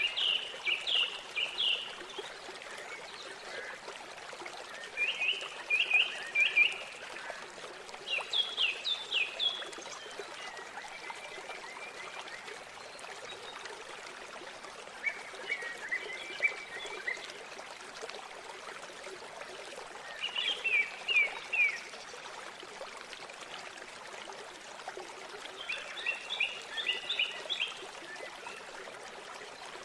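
Steady rushing of river water, with a small bird singing short phrases of four to six quick high chirps, repeated every few seconds.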